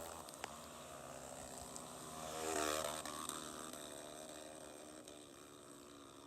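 A distant off-road motorcycle engine, its sound swelling about two and a half seconds in and then fading away.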